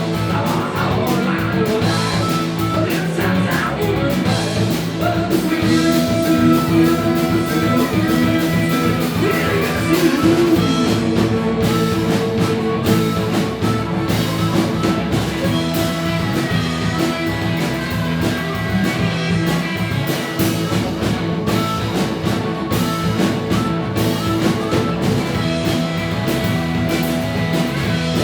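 A rock band playing live: electric guitar and drum kit, with a singer's voice.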